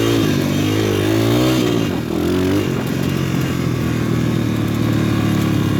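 PitPro 140cc pit bike's single-cylinder four-stroke engine running on a rocky trail. The revs rise and fall for the first couple of seconds, then the engine settles to a steadier note.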